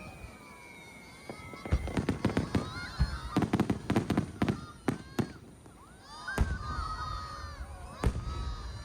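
Aerial fireworks bursting: a falling whistle fades out, then a quick run of sharp cracks and bangs between about two and five seconds in, with single bangs again near the end. Spectators' voices are heard between the bursts.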